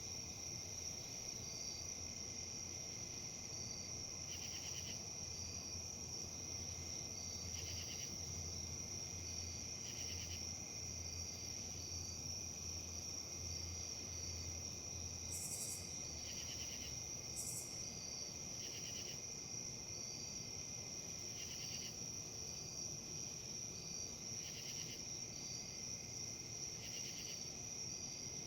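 Crickets and other insects calling: a steady high trill, with a regular chirp under it about every three-quarters of a second and a buzzier call every two to three seconds.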